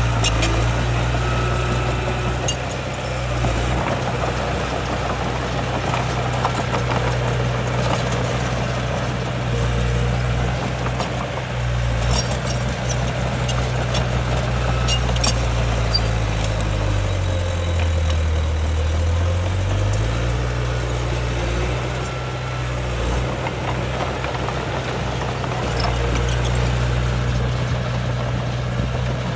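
Heavy diesel engine of earthmoving machinery running steadily, its low hum dropping in pitch for a couple of seconds just past the middle before coming back up, with scattered sharp clicks and clanks over it.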